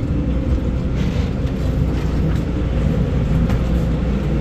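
Steady, loud low rumble of a parked jet airliner, with a constant hum running under it.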